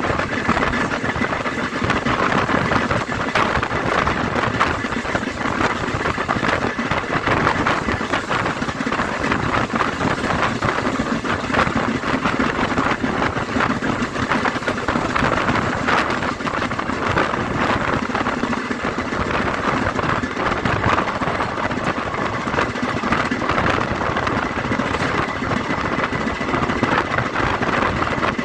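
A vehicle engine running steadily at an even level with no letup.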